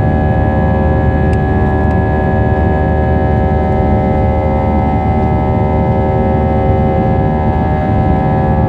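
Jet airliner engines at takeoff power heard from inside the cabin: a loud, steady low rumble with several steady whining tones over it.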